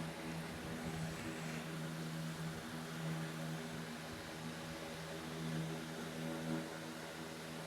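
A steady low hum with several overtones above it, over a constant hiss.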